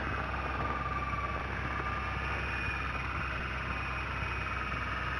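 Snowmobile engine running steadily at low speed.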